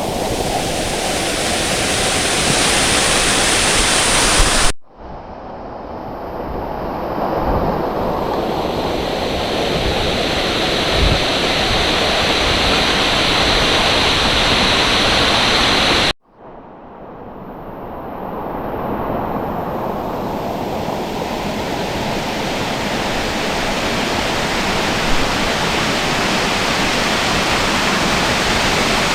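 Steady rushing roar of a waterfall close by. It cuts off abruptly about five seconds in and again about sixteen seconds in, each time swelling back up over a few seconds.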